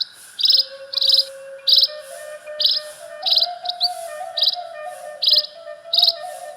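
Saluang-style Minang bamboo flute music holding long, soft notes that step slowly upward, under loud high chirps that repeat about one and a half times a second, like crickets.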